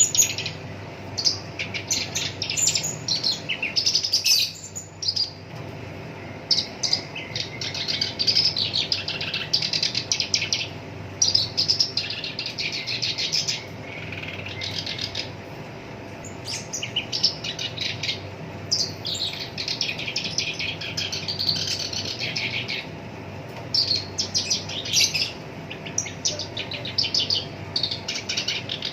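Black-browed reed warbler singing a harsh, chattering song in rapid phrases of half a second to two seconds, with short pauses between them.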